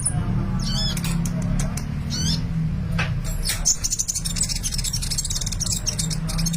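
Sunbird singing: twisting high chirps about one and two seconds in, then a rapid, dense high-pitched twittering from about four seconds, over a steady low hum.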